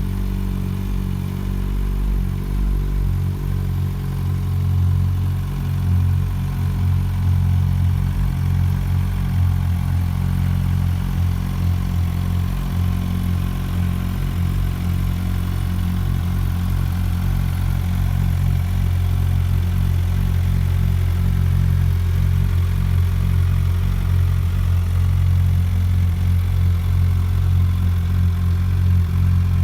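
2022 Suzuki GSX1300R Hayabusa's 1340 cc inline-four engine idling steadily, heard through its exhaust.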